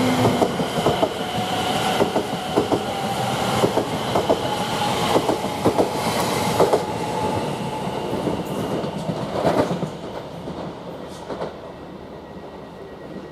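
Greater Anglia Class 720 electric multiple unit passing, its wheels clicking over the rail joints, with a steady whine; the sound fades away about ten seconds in.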